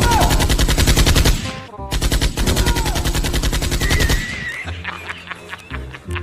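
Fake-gun prank machine-gun sound effect: two bursts of rapid automatic gunfire, each about two seconds long, with a short break between them. Quieter music with a beat takes over about four and a half seconds in.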